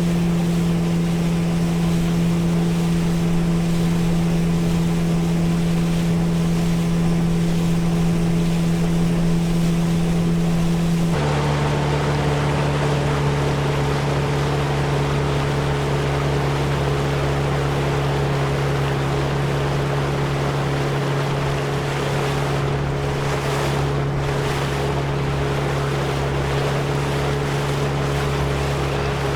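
Motorboat engine running steadily under way, with water rushing past the hull and some wind. About eleven seconds in, the engine note abruptly drops lower and the rushing water grows louder.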